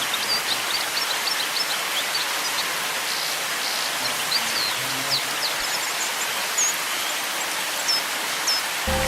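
Waterfall rushing steadily, with many short, high bird chirps over it. Music comes in just before the end.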